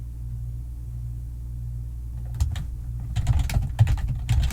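Typing on a computer keyboard, a quick run of key clicks that starts about halfway through and gets faster, over a steady low hum.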